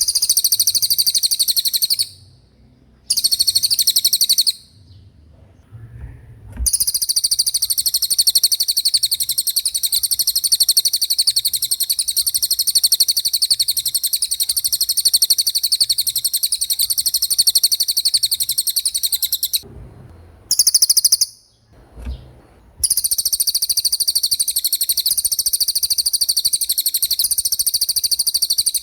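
Cililin songbird singing its fast rolling trill: a high-pitched, very rapid string of repeated notes in long runs, broken by a few short pauses.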